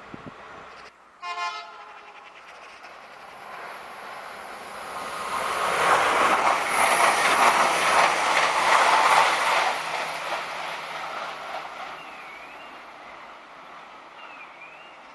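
Irish Rail 22000 class diesel multiple unit giving a short horn blast about a second in, then running through the station at speed. The rush of engine and wheel noise builds, is loudest in the middle and fades away as the train passes.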